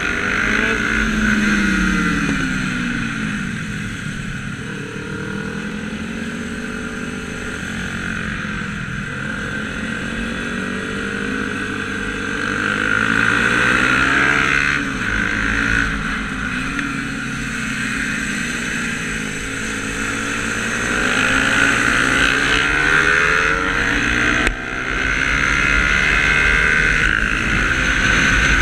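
Motorcycle engine heard from on board at track speed, its pitch repeatedly rising under throttle and falling off into corners and through gear changes, over a steady rush of wind noise. There is a brief sudden drop in sound near the end.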